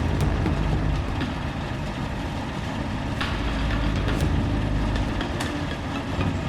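Heavy diesel engine running at a steady speed, with a few sharp clicks about three, four and five seconds in.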